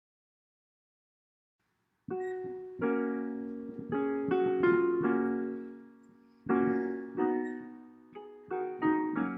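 Piano playing slow, sustained chords that each ring and fade. It comes in about two seconds in, after a dead-silent gap.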